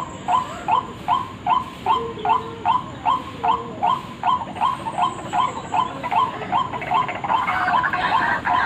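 White-breasted waterhen calling: a short note repeated evenly about two and a half times a second, joined near the end by a denser, jumbled burst of calling.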